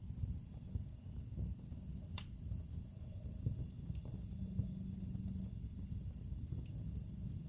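Wood fire burning in a fireplace: a steady low rumble of flames with scattered crackles and pops of burning logs, one sharper snap about two seconds in.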